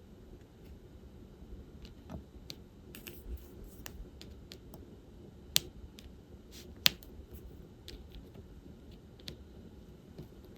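Irregular light clicks and taps of diamond painting: a drill pen picking up diamond-painting beads from a tray and pressing them onto the canvas. Two sharper clicks stand out a little past halfway.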